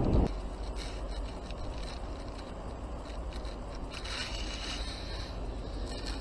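A gust of wind on the microphone cuts off just after the start. Then come faint scraping and clicking, typical of a spinning reel being cranked on a slow micro-jig retrieve.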